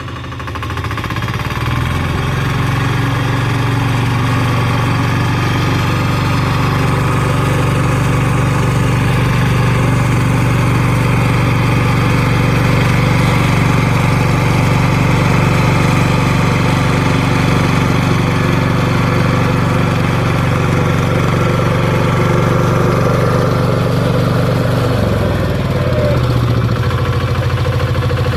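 Valpadana 4RM 180 mini tractor's diesel engine, rising to a steady, fast run over the first two seconds. About 25 seconds in, its pitch drops as the engine slows to a lower, steady speed.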